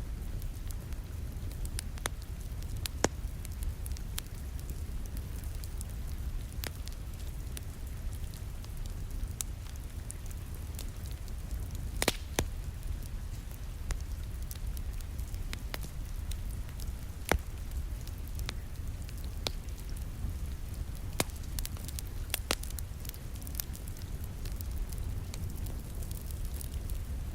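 Wood fire in a fireplace crackling, with scattered sharp pops, the loudest about 3, 12 and 17 seconds in, over a steady low rumble and the soft hiss of rain against a window.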